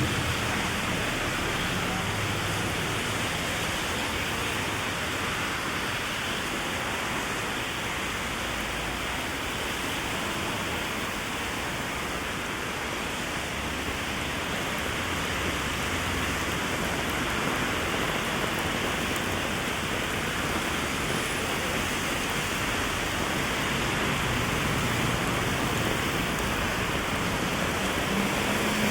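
Heavy rain falling on an umbrella and the street: a steady hiss, with a low rumble underneath.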